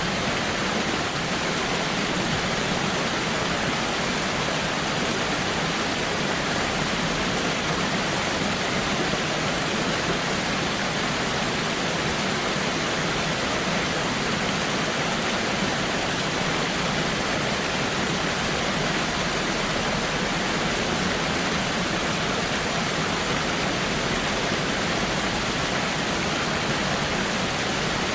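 Waterfall running as a steady, even rush of falling water.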